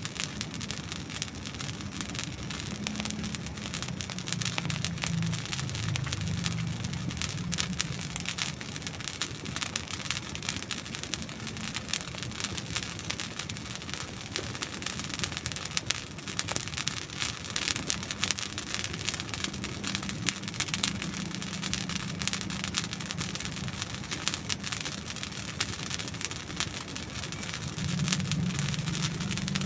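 Dry wood burning in a campfire, crackling and popping with many small, irregular snaps. Underneath is a low rushing sound that swells now and then.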